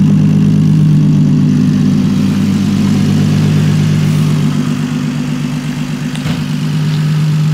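Turbocharged BMW M54 inline-six running steadily at low revs, a deep even drone that eases a little about halfway through and swells again near the end.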